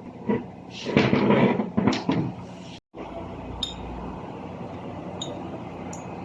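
Metal parts and hand tools clanking and scraping during gearbox work, several loud irregular knocks and scrapes. After a brief cut there is a steady low hum with a few faint ticks.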